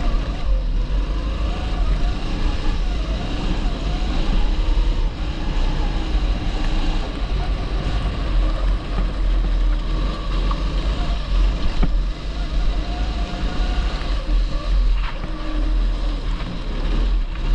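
A 270 cc go-kart engine running at speed, its pitch rising and falling as the kart accelerates and slows through the corners.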